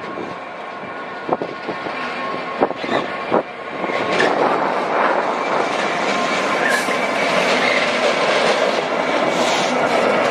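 Train moving through a station, its wheels clacking over the rail joints: a few sharp clacks at first, then a louder, steady running noise from about four seconds in.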